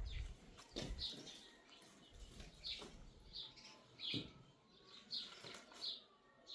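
Small bird chirping repeatedly in short, high chirps, about one or two a second, with a few soft knocks near the start and about four seconds in.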